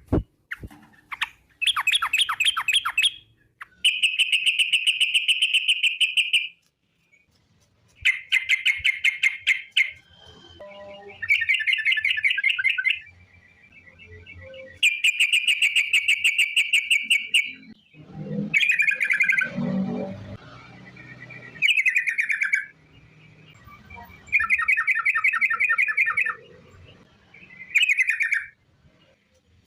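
Yellow-vented bulbul (trucuk) singing its long rapid 'ropel' trill: bursts of fast chattering notes, each one to two and a half seconds long, repeated every few seconds.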